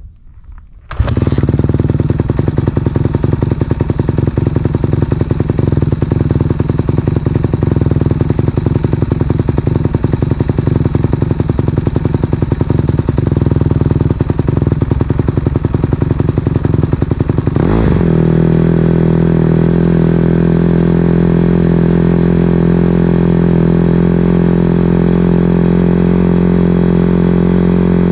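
Honda CRF150RB's 150 cc single-cylinder four-stroke engine starting up about a second in and running steadily with a fast, even pulse. About two-thirds of the way through, the sound changes to a smoother, steadier note.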